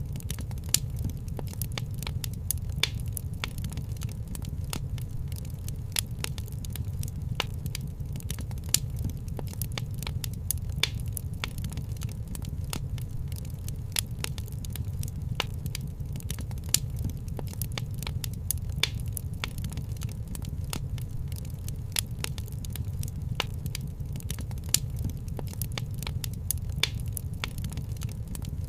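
Wood fire crackling: frequent small snaps and pops, with a few louder ones, over a steady low rumble of the flames.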